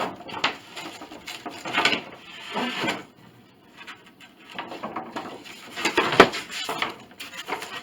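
Old wooden piano soundboard panels being shifted in a pile, knocking and scraping against each other in a few separate clunks, with a quieter pause midway.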